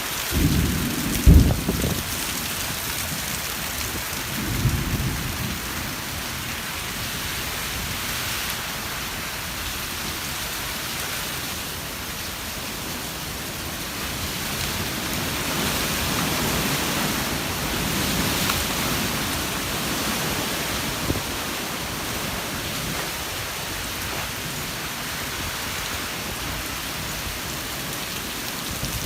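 Summer-storm rain pouring steadily, with heavy low rumbles in the first two seconds and again about four to five seconds in.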